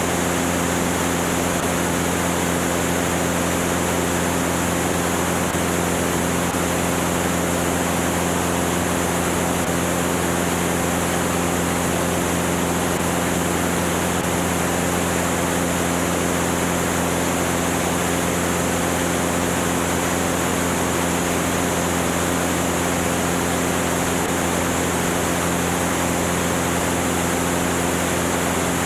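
Cessna 205's six-cylinder piston engine and propeller running steadily at constant power, an even droning hum with a steady rushing noise over it.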